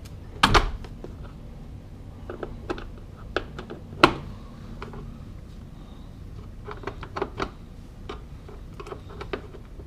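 Scattered light clicks and taps of small fittings being handled, with a sharper knock about half a second in and another about four seconds in.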